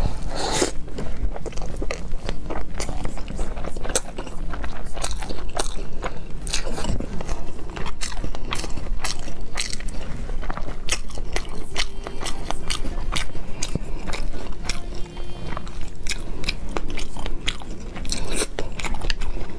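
Close-miked chewing and biting of salmon sushi topped with fish roe and crab salad, heard as a dense, irregular run of small mouth clicks and smacks.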